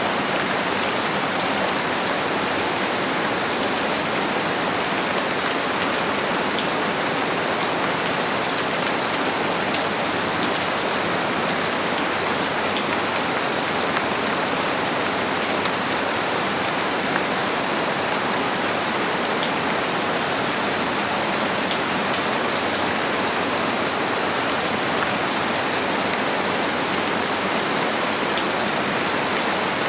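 Steady heavy rain: a dense, even hiss with countless fine drop ticks, with no thunder.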